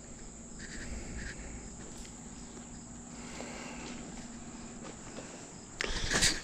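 Crickets and other insects chirring steadily in the background, with a few louder rustling scuffs near the end.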